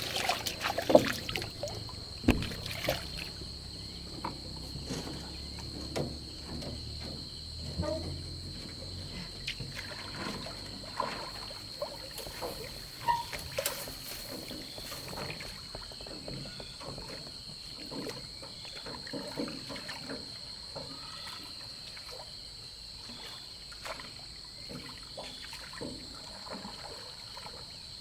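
Small boat on the water: irregular splashes and knocks, loudest in the first three seconds, over a steady high-pitched whine.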